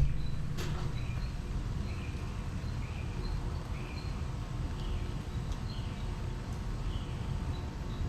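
Steady low wind rumble on the microphone during a storm, with short high chirps repeating about once a second and a single click about half a second in.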